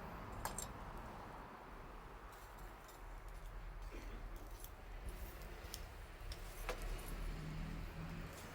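Wood campfire crackling, with scattered sharp pops every second or so.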